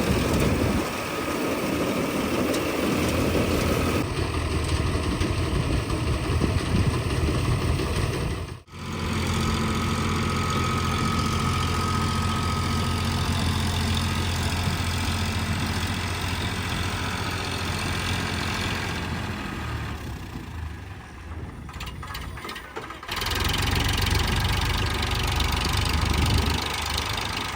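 Eicher combine harvester's diesel engine running steadily, with a steady low hum. The sound changes abruptly a few times, dropping out briefly near the middle and going quieter for a few seconds later on.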